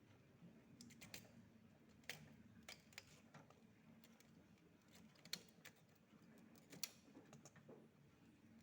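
Near silence broken by a few faint, scattered clicks and taps, the sharpest about five and seven seconds in, over a low steady hum.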